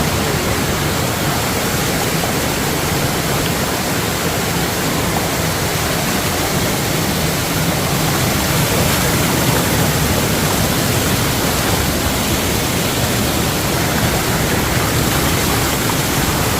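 A waterfall in rainy-season flow, a steady, loud rush of falling water.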